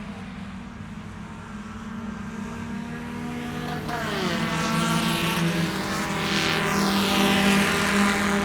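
Motor vehicle engine running with a steady hum. About four seconds in, one engine note glides down in pitch, and the sound then swells louder, as a vehicle passing close by does.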